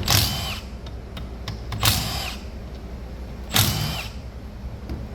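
A cordless power driver spinning bolts out of the engine cases, three short bursts about a second and a half apart, each motor whine falling in pitch as it spins down.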